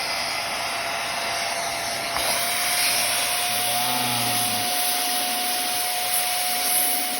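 Hoover Clean Slate XL portable carpet and upholstery cleaner running its suction motor, a steady whine over rushing air as it vacuums cleaning solution and dirt back out of a car seat. About two seconds in, the motor whine gets a little louder and higher.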